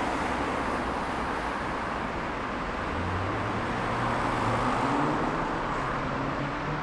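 Steady city road traffic: a continuous roar of tyres and engines from cars passing. The engine hum of a nearby vehicle rises in the middle and peaks in loudness about five seconds in.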